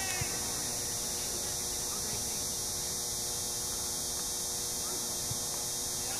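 Steady hum and hiss with a low rumble, and faint distant voices briefly at the start.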